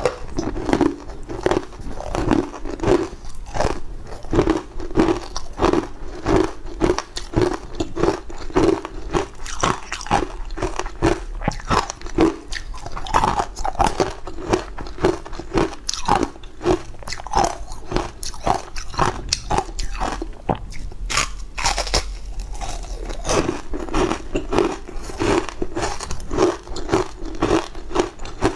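Close-miked chewing and crunching of a green, powder-coated sweet cake, in quick rhythmic bites of about two to three a second.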